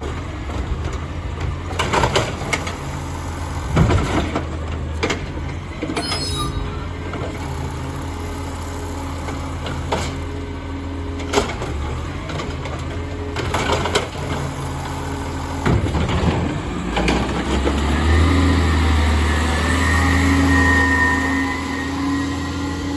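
Amrep garbage truck's diesel engine running steadily, with sharp clanks and knocks from the truck's lifting arm and the carts it handles. Near the end the engine revs up under load with a rising hydraulic whine.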